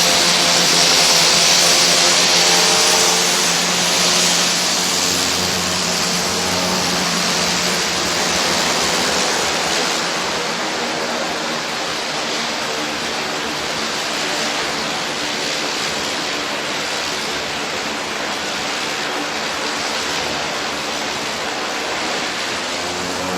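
Propeller aircraft engines running steadily: a loud hiss over a hum of many steady tones that drift slightly in pitch.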